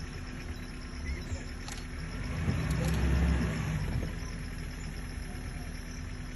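A vehicle engine idling with a steady low hum, growing a little louder for about a second and a half, about two and a half seconds in.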